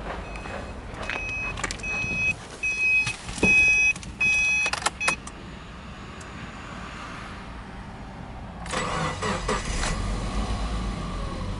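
A car's warning chime beeps steadily, about every 0.7 s, with clicks and a clunk from the door and cabin. About nine seconds in, the Subaru Impreza 20S's 2.0-litre boxer four-cylinder engine starts and settles into a steady idle.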